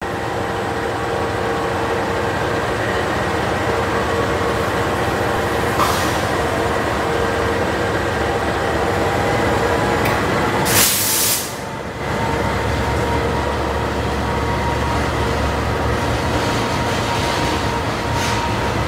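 KAI diesel locomotive hauling a passenger train past the platform as it departs, its engine running with a steady drone and whine. About eleven seconds in comes a short, loud hiss, followed by a deep rumble as the coaches roll by.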